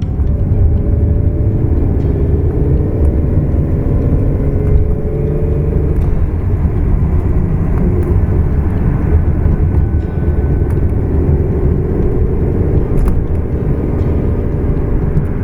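Ferrari 365 GT4 2+2's V12 engine pulling the car along on the road. Its pitch climbs gently as it accelerates, drops back briefly about six seconds in, then climbs again.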